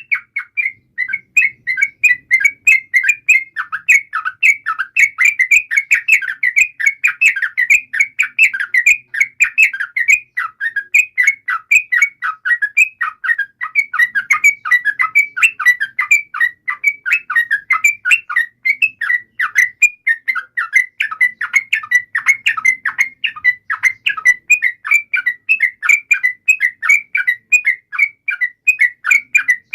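Yellow-vented bulbul (trucukan) singing continuously: a dense, fast run of short, bubbly whistled notes that goes on without a break, the kind of long song used as a lure to set other bulbuls singing.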